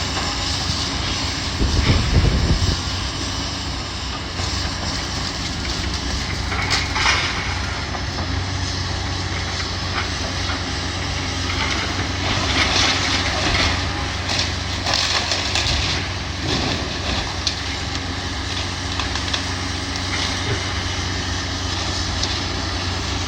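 Heavy demolition machinery running with a steady low diesel drone, with a heavy thump about two seconds in and several bouts of crunching and scraping as building debris is torn down and dropped.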